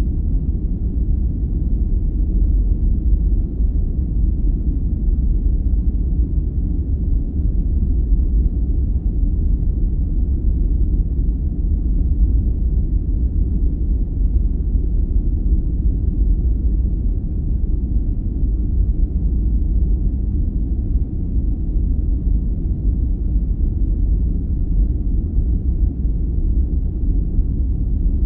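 Steady sleep-aid noise: an even, deep, muffled noise with no pitch, rhythm or changes, its energy low down and without any high hiss.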